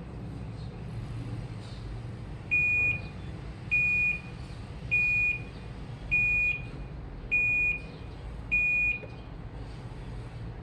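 Washing machine's electronic signal beeping six times, short high beeps about a second and a quarter apart, the usual end-of-cycle alert, over a low steady hum.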